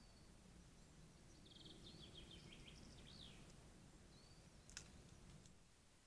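Faint songbird singing: a quick run of high chirps and whistled notes in the middle, with single short calls before and after, over low steady background noise. One sharp click near the end.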